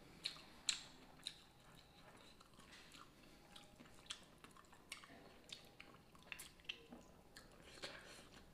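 Faint close-up chewing of a mouthful of rice eaten by hand, with irregular wet mouth clicks and lip smacks, a few sharper ones in the first second or so. Fingers mix and scoop the rice in a stainless steel bowl.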